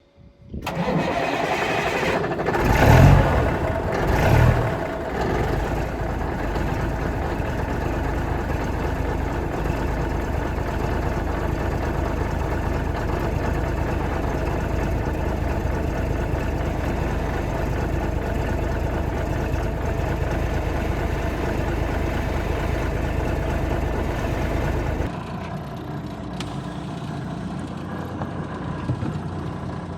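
A 1985 Freightliner cabover semi truck's diesel engine running, with two short revs a few seconds in and then a steady low run. About 25 seconds in, the sound drops suddenly to a quieter level.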